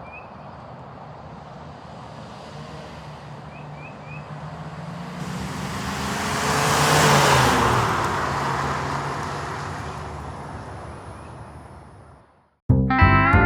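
A V8 car drives past: its engine note and tyre noise build to their loudest about seven seconds in, the pitch drops slightly as it passes, and the sound fades away. Music cuts in near the end.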